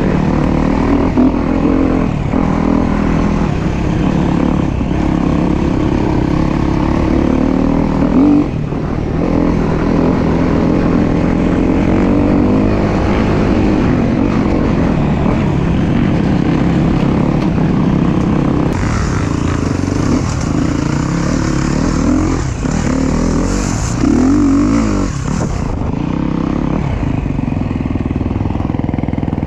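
Dirt bike engine running under riding load, the revs rising and falling with the throttle. A steady hiss sits over it for several seconds past the middle.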